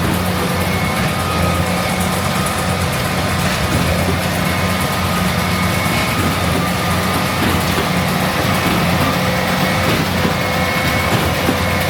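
Heavy diesel farm machinery running steadily: a constant low engine hum with faint steady whining tones above it.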